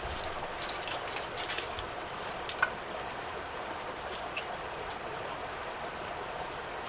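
Wood fire crackling: a steady hiss with sharp, irregular pops, thickest in the first few seconds and sparser after.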